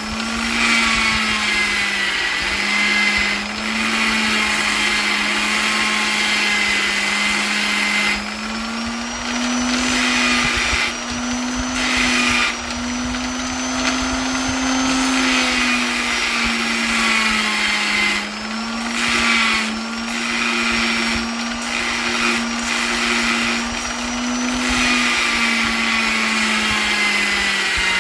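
Electric polisher's motor running continuously with a steady whine, its pitch drifting slightly up and down, and the level dipping briefly every few seconds.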